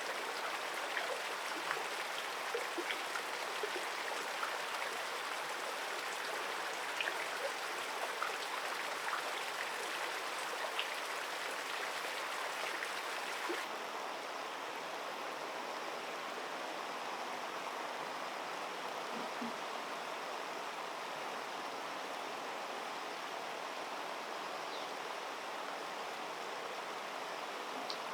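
Water of a shallow river running steadily, with small splashes and drips through the first half. About halfway through, the sound turns slightly duller and smoother.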